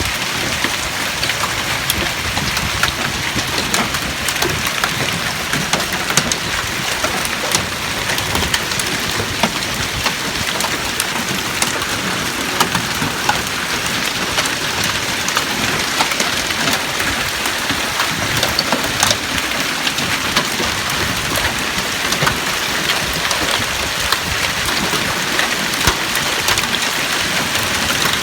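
Hailstorm with heavy rain: a steady downpour with many sharp hits of hailstones striking hard surfaces, continuous throughout.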